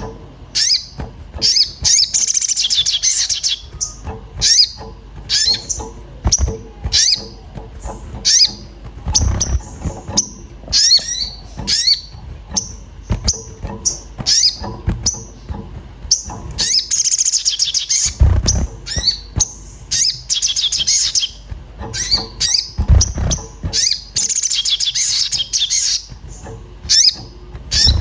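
Little spiderhunter (sogon) calling agitatedly: sharp, high, downward 'cuit' chirps about one or two a second, broken several times by rapid high chattering runs. A few low thumps sound between them.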